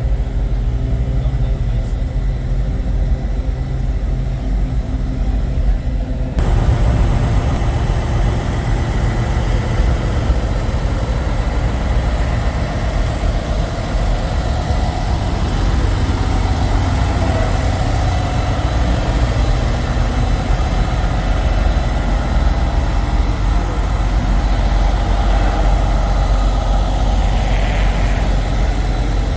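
Diesel engines of semi trucks idling, a steady low rumble. About six seconds in the sound changes abruptly to a broader, noisier rumble.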